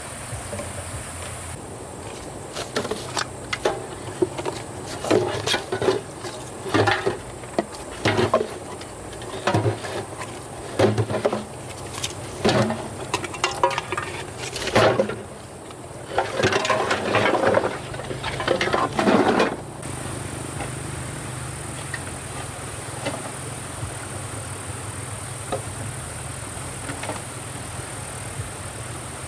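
Steady high-pitched chirring of insects, likely crickets, over a low steady hum. Through the first two-thirds it is broken up by a run of irregular knocks, clatter and rustling from objects being handled.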